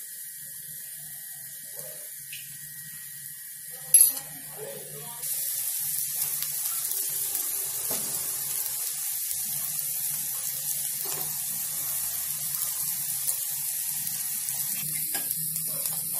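Vegetable patties frying in oil on a nonstick tawa: a steady sizzling hiss that gets clearly louder about five seconds in as they are turned with a spatula. A sharp knock about four seconds in is the loudest moment.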